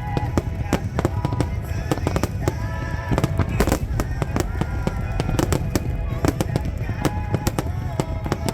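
Fireworks bursting and crackling in quick succession, many sharp bangs throughout, with music and voices underneath.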